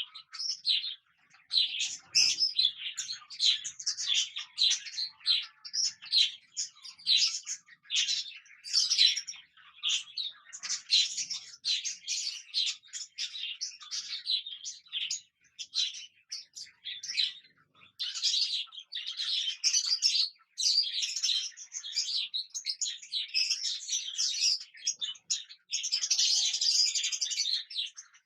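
Cockatiels chirping in quick, unbroken chatter.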